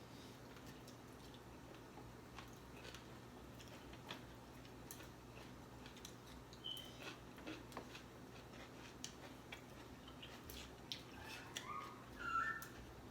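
Faint chewing and eating sounds with scattered small clicks as fried chicken wings are bitten and eaten. A short high-pitched cry comes about twelve seconds in.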